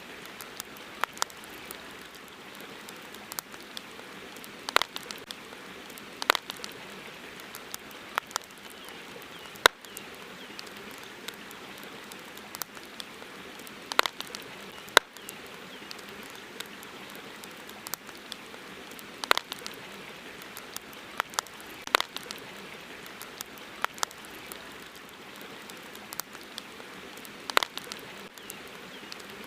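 Campfire crackling: sharp, irregular pops every second or two, a few of them much louder, over a steady even hiss.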